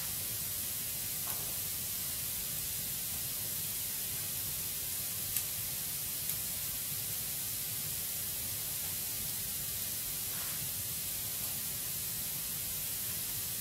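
Wood fire burning in a fireplace: a steady hiss with a few sharp crackles, the loudest about five seconds in.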